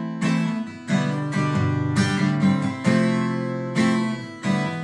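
Acoustic guitar strumming chords in the instrumental of a rap track, with no vocals.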